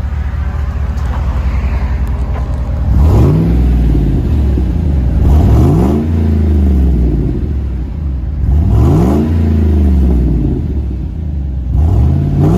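2007 Chevy Suburban's 5.3-litre V8 breathing through a MagnaFlow Magnapack muffler in place of the factory muffler and resonator. It idles, then is revved four times, each rev rising in pitch and dropping back to idle.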